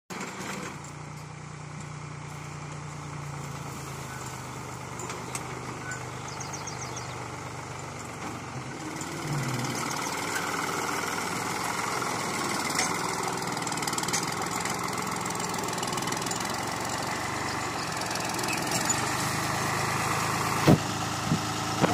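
Tractor engine running steadily while pulling a sugarcane planter, growing louder a little under halfway through, with a couple of sharp knocks near the end.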